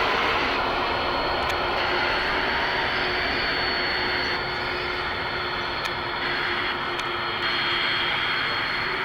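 Jet airliner engines running, a loud steady rush with a thin high whine through it.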